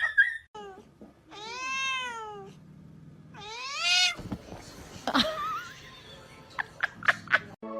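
Domestic cat meowing: two long, drawn-out meows, the first rising and then falling in pitch, the second rising. A few short knocks follow near the end.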